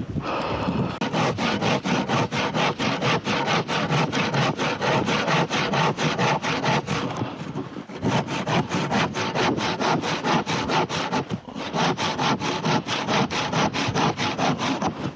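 Hand saw cutting through wood in quick, even back-and-forth strokes, pausing briefly about eight and eleven seconds in.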